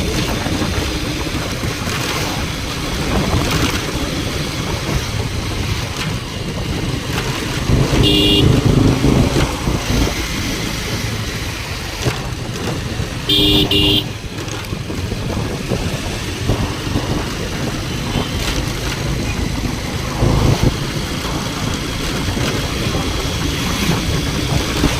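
Road traffic running steadily, with a vehicle horn honking twice, briefly about eight seconds in and again about thirteen and a half seconds in.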